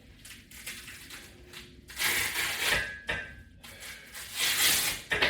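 A person breathing hard under exercise effort: two long, forceful hissing exhales about two seconds in and again near the end, with softer breaths between.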